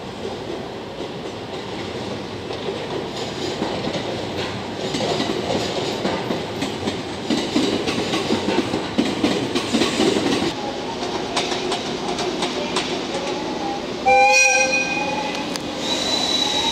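Chiki flatcars loaded with long rails rolling past, wheels clicking over the rail joints, the rumble and clatter growing louder. About two seconds before the end, a locomotive horn gives one short, loud blast.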